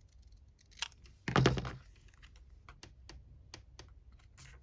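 Small clicks and taps of paper and crafting tools being handled on a desk, with one louder knock and rustle about a second and a half in.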